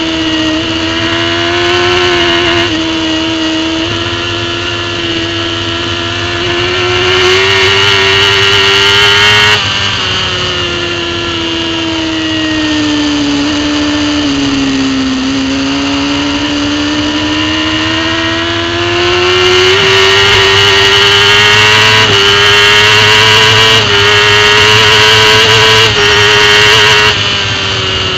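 Racing superbike engine at high revs, its pitch climbing with short sudden dips at gear changes. About ten seconds in the throttle closes and the revs fall slowly for several seconds, then climb again through further shifts, easing off near the end.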